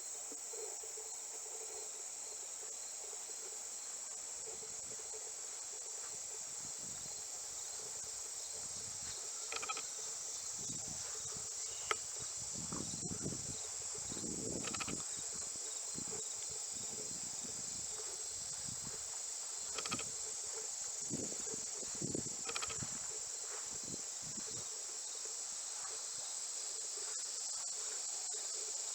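Outdoor insect chorus, a steady high-pitched chirring like crickets, with a few faint scattered knocks.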